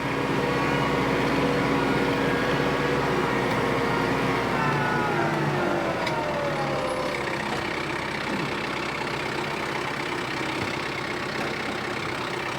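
Diesel tractor engine running steadily under the throttle, its pitch sliding down about five seconds in as the revs fall, then running on lower.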